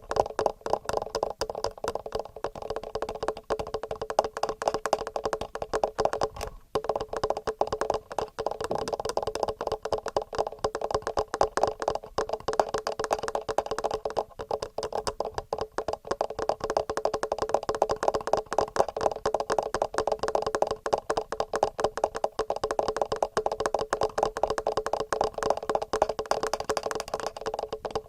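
Fingernails tapping quickly and steadily on the microphones of a TASCAM handheld recorder, a dense run of hollow clicks that breaks off briefly about six and a half seconds in.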